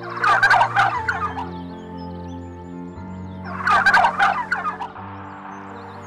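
Turkey gobbling twice: a rapid rattling call of about a second at the start, and another about three and a half seconds in. Soft background music with sustained notes plays under it.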